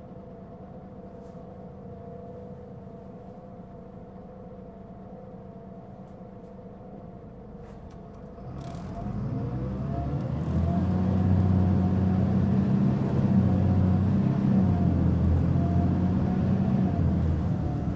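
Mitsubishi Fuso Aerostar city bus's six-cylinder turbo diesel, heard from inside the cabin: it idles steadily, then a little over eight seconds in it pulls away under fairly heavy throttle, the engine note climbing and getting much louder until it eases off slightly near the end. This bus is known for a pronounced abnormal running noise.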